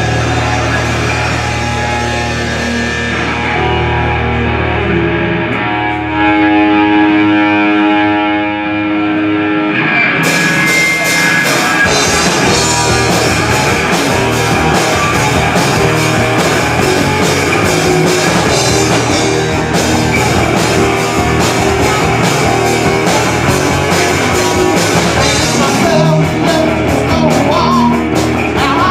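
Live rock band playing loudly: held, ringing guitar chords for the first ten seconds or so, then the drums and full band kick in and drive on to the end.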